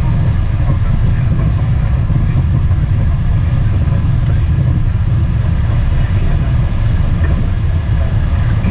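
Steady, loud low rumble heard inside the cockpit of an Embraer Phenom jet: engine and airflow noise with no sudden events.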